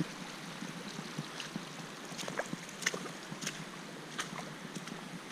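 Creek water running steadily over rock, with scattered small sharp ticks and splashes.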